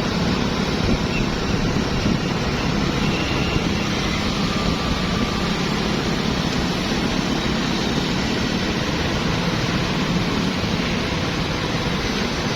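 Steady street traffic: motorbikes, cars and tuk-tuks running past in an even wash of engine and road noise, with no single vehicle standing out.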